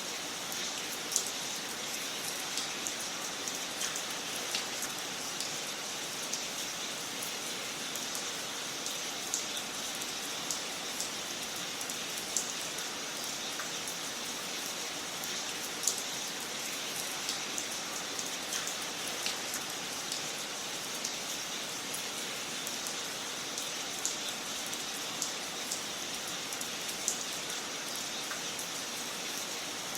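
Wood fire crackling in a fireplace: a steady hiss with sharp pops every second or two, a handful of them louder.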